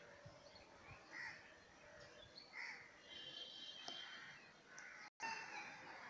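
Faint birds calling and chirping over quiet outdoor ambience; the sound cuts out for an instant about five seconds in.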